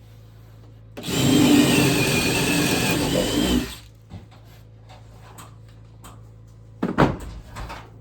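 A power drill running for about three seconds, its whine wavering slightly under load. A short knock follows about seven seconds in.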